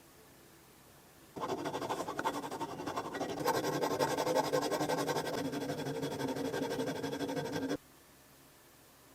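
A small power tool working on metal for about six seconds, starting and stopping suddenly.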